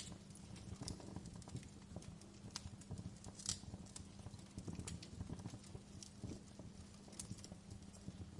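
Wood fire crackling in a fireplace: irregular snaps and pops, a few a second, over a steady low rumble of the flames.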